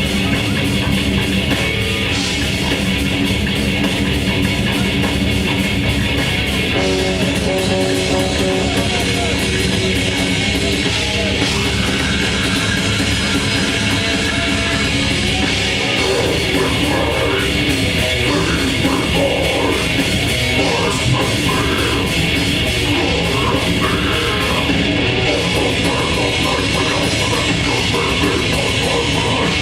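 Grindcore band playing live: heavily distorted electric guitars and a drum kit, loud and unbroken.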